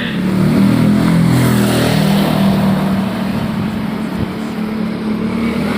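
A motor engine running close by, its note fairly steady with small rises and falls.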